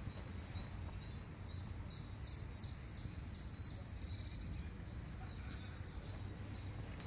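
A small songbird singing a quick run of about nine high, evenly spaced notes over about three seconds, over a steady low outdoor rumble.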